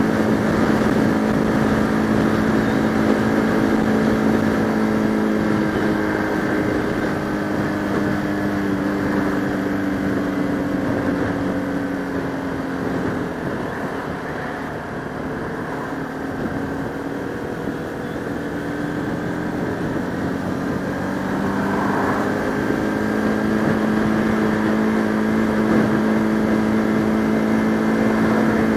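Bajaj Pulsar RS200 single-cylinder motorcycle engine running while riding, with wind on the microphone. The engine note sinks slowly as the bike eases off through the first half, stays lower for a few seconds, then climbs back up and holds steady near the end.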